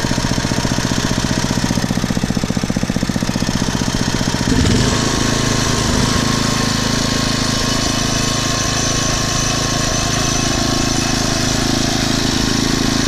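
5 hp horizontal-shaft Briggs & Stratton single-cylinder engine at its lowest idle, each firing stroke distinct, then picking up speed about four and a half seconds in and running steadily faster. Freshly tuned up with a small carburettor mixture adjustment, it holds each speed without hunting up and down.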